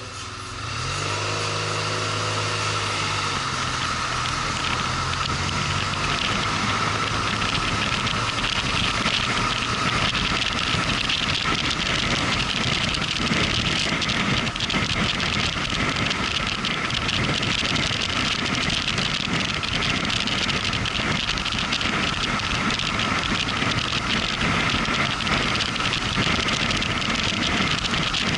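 Motorcycle engine pulling away and rising in pitch over the first few seconds, then steady riding with heavy wind and road noise.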